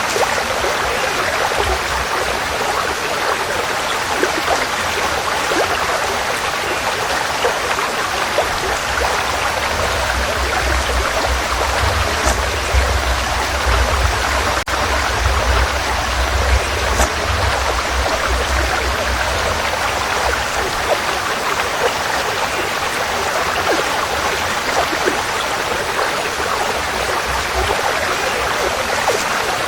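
Forest stream flowing: a steady rush of water, with a deeper rumble under it for several seconds in the middle.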